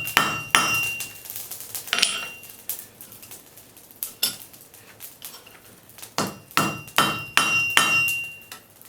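Hand hammer striking hot iron on an anvil while forging arrowheads, each blow with a bright metallic ring. A few blows, a stretch of lighter, scattered taps, then a quick run of about six blows near the end.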